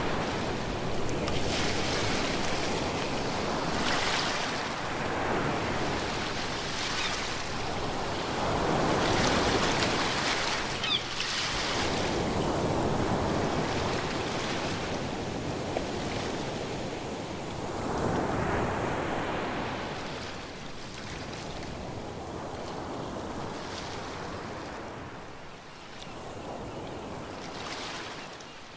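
Ocean waves breaking and washing in, swelling and ebbing every few seconds, growing quieter over the last several seconds.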